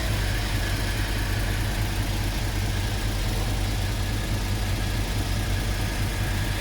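Diesel engine of heavy road-building machinery running steadily at low revs, a constant low rumble.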